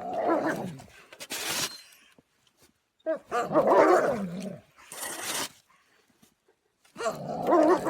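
A dog vocalizing in three drawn-out, wavering calls, one at the start, one about three seconds in and one near the end, with a short hissy burst after each of the first two.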